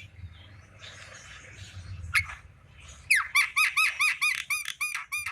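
Javan myna (jalak kerbau) calling: one short note about two seconds in, then from about three seconds in a fast run of short repeated squeaky notes, about five a second, which stops abruptly at the end.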